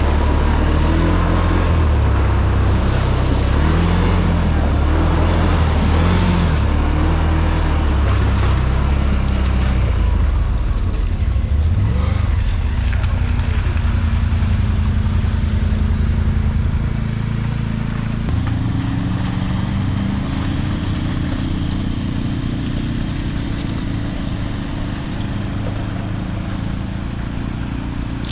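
ATV engine running while riding, its pitch changing with the throttle: it rises about twelve seconds in, then runs quieter and lower for the rest of the stretch.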